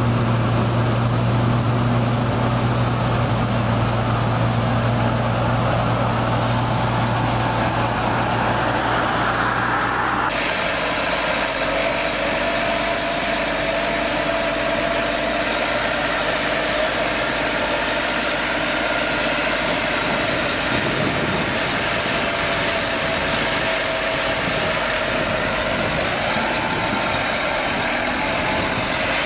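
A heavy engine running steadily. About ten seconds in, the sound changes abruptly to a different steady, higher-pitched running note.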